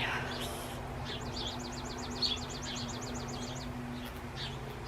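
Small birds chirping, one giving a fast trill of about eight short high notes a second for a couple of seconds. A steady low hum runs underneath and stops about four seconds in.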